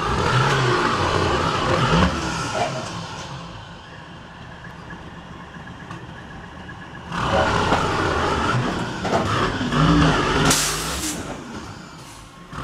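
Truck on the road, its engine and road noise loud at first, fading over the first few seconds and swelling again about seven seconds in, with a short high hiss about ten and a half seconds in.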